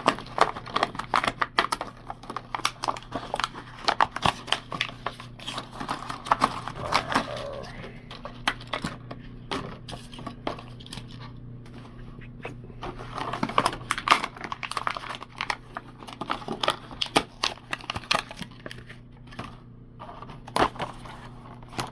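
Hot Wheels plastic blister packs and card backings being torn and crinkled open by hand: dense irregular crackling and tearing, easing off in the middle and picking up again, over a steady low hum.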